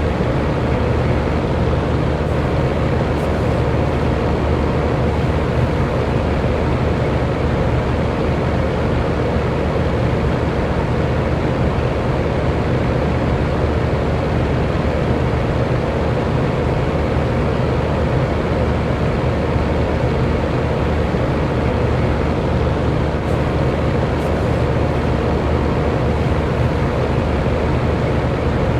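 Electric fan running steadily: an even rush of air with a faint steady hum, heaviest in the low range and unchanging throughout.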